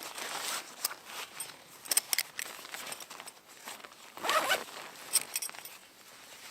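A zipper being pulled in several short runs, the longest about four seconds in, with a few sharp clicks between.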